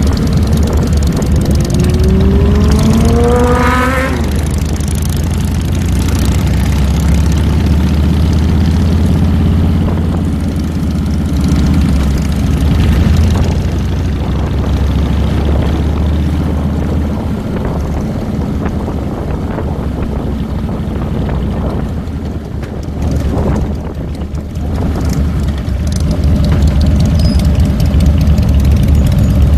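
2007 Harley-Davidson Fat Boy's Twin Cam 96 V-twin engine running on the road, revving up with a rising pitch between about one and four seconds in, then running steadily.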